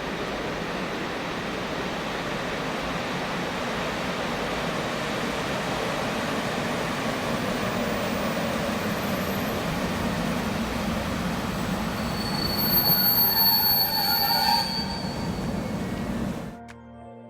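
Passenger train running through a station, its rumble growing slowly louder, with a high-pitched metallic squeal from the wheels or brakes for about two seconds near the loudest point. The sound cuts off abruptly just before the end.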